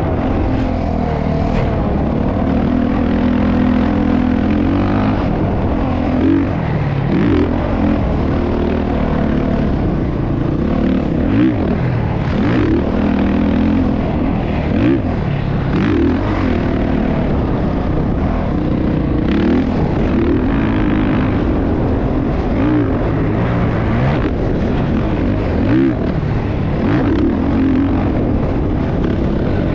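Motocross dirt bike engine running hard, its pitch rising and falling again and again as the throttle opens and closes.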